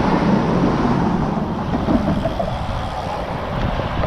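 Wind buffeting the microphone of a moving bicycle, with an engine drone in the first second or two that then fades.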